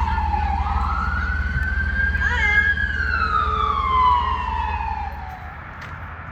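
Fire apparatus siren wailing in one slow rise and fall, over the low rumble of the vehicle's engine; both fade away about five seconds in.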